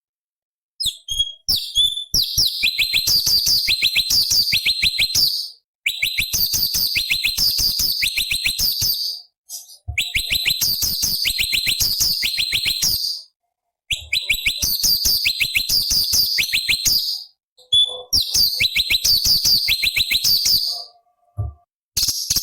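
Cucak cungkok leafbird singing in loud, rapid trilled phrases of fast repeated high notes, about seven a second, each phrase lasting three to four seconds with short pauses between.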